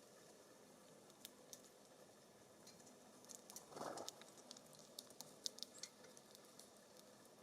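Faint scattered ticks and taps of small birds pecking and hopping at a wooden bird feeding station, with a short rustle about four seconds in.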